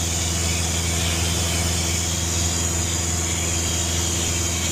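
Cessna 172's four-cylinder Lycoming engine and propeller droning steadily in flight, heard from inside the cockpit, with a constant airflow hiss.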